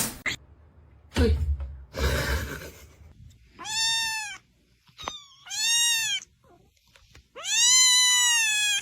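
A cat meowing three times, long drawn-out meows that rise and then fall in pitch, the last one the longest. Two short noisy sounds come before the first meow.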